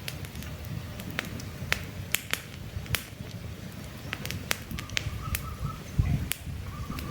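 Campfire of burning logs crackling: frequent irregular sharp pops and snaps over a low rumble of the flames.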